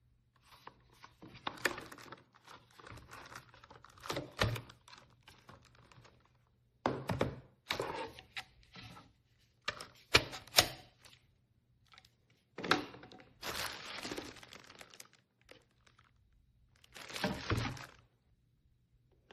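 Irregular handling noises: knocks and thunks mixed with crinkling and rustling, in several bursts separated by short pauses.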